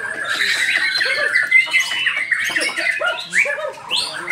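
Several white-rumped shamas singing at once, a dense tangle of quick chirps, trills and whistled notes overlapping without pause.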